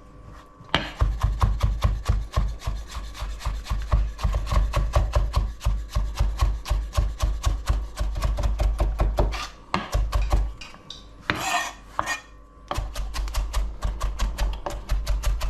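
Kitchen knife slicing a cucumber on a chopping board: quick, even strokes about five a second. They pause about ten seconds in for a brief scraping sound, then resume.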